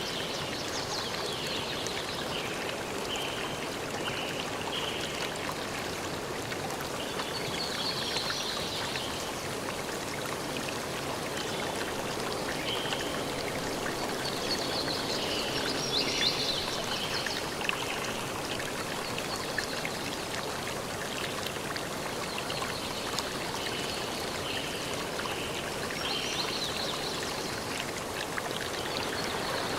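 Forest stream flowing steadily, with short high-pitched calls coming and going over it several times.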